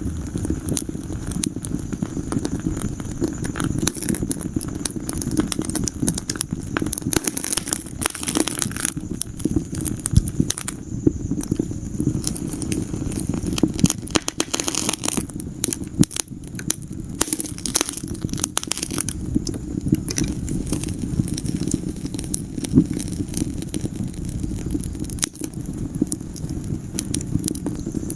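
Wood fire burning in a fireplace, crackling and popping constantly over a steady low rumble of the flames.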